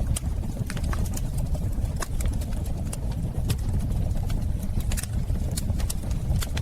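Fireplace fire burning with a steady low rumble and irregular crackles and pops.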